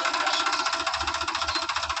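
Diesel engine running steadily with a fast, even knocking beat.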